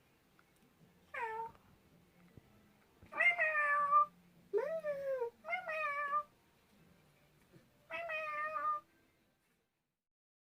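Domestic cat meowing about five times: a short call, then longer ones, each sliding down in pitch.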